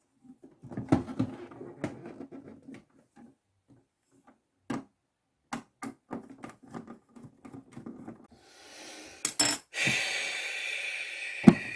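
Clicks and knocks of small hard parts being handled and set down, then a steady whirring noise from about ten seconds in.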